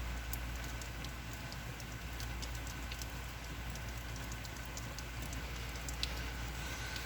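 Steady rain falling, with many scattered drops and drips pattering on nearby surfaces.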